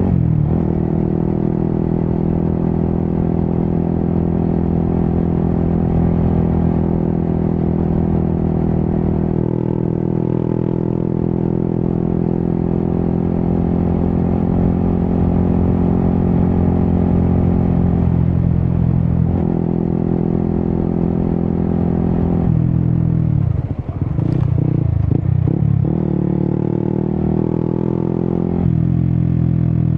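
Yamaha XSR 155's single-cylinder engine through an Akrapovic exhaust, cruising under steady throttle. About three-quarters of the way through, the revs drop and then rise and fall quickly a few times before settling back into a steady run.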